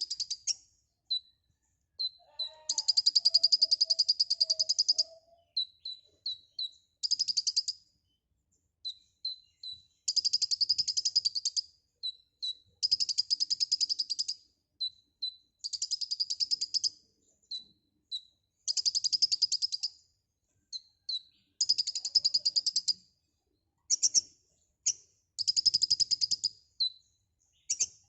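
A kolibri ninja (konin) sunbird singing hard. It gives a run of high, rapid buzzing trills, each a second or two long and coming every couple of seconds, with short single high chips in the gaps between them.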